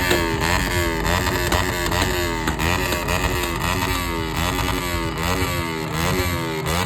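Motorcycle engine revved in quick repeated blips, about two a second, its pitch falling after each one.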